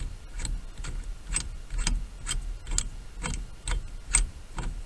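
Socket ratchet clicking in regular strokes, about two clicks a second, as it turns a steering wheel puller's center bolt down against the steering shaft.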